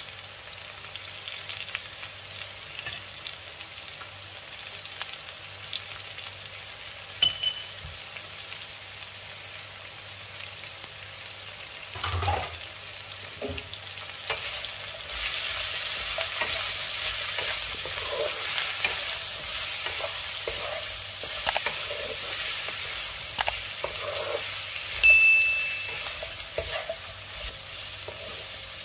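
Vegetables stir-frying in a nonstick wok: a steady sizzle with scattered clicks and scrapes, growing louder about halfway through.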